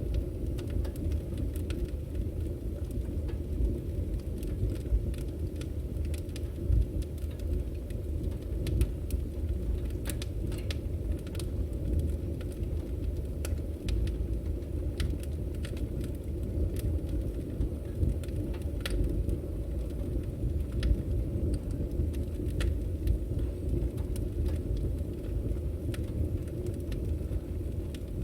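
Firewood burning in a wood fire: a steady low rumble of flames with sharp crackles and pops every second or so.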